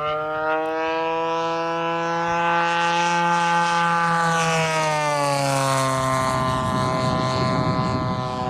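Giant-scale RC P-40's DLE-55 two-stroke gasoline engine (rear exhaust) at full throttle in flight. The engine note rises as the throttle opens, holds steady, then falls in pitch about five seconds in as the plane flies past.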